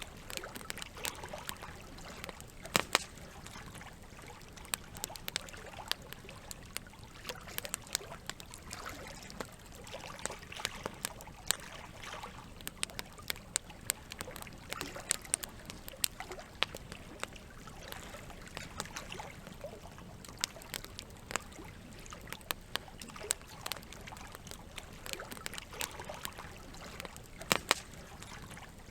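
Campfire crackling, with frequent sharp pops and snaps over a steady trickle of running water. Two louder pops stand out, about three seconds in and near the end.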